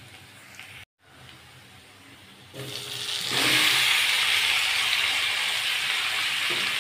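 Marinated chicken pieces and potatoes tipped into a kadhai of hot oil and fried onions, setting off a loud, steady sizzle from about three seconds in. Before that, only a faint frying hiss.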